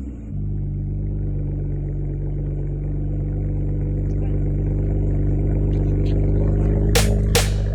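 A car engine running at a steady pitch and slowly growing louder. Two quick whooshes come near the end.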